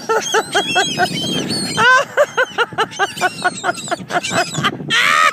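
Seagulls calling: runs of short, quickly repeated calls, with a louder, longer call near the end.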